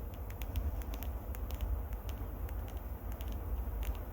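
Fingers scratching and rubbing directly on a microphone: a steady low rumble with many small crackles and clicks.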